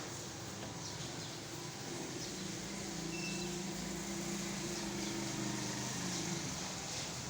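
Heavy rain falling steadily, with a low engine hum that swells through the middle and fades near the end.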